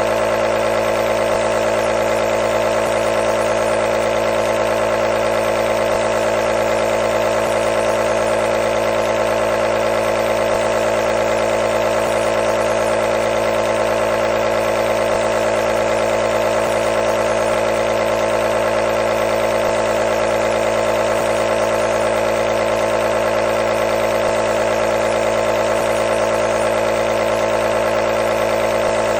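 Nebulizer compressor running, a steady buzzing hum with a hiss of air.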